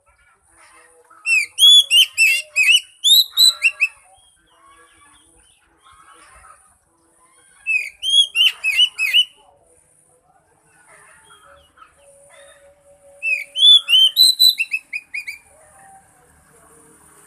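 Oriental magpie-robin (kacer) singing: three loud bursts of rapid, repeated rising whistled notes, with softer twittering between them. The song serves as a lure to get a silent kacer to start singing.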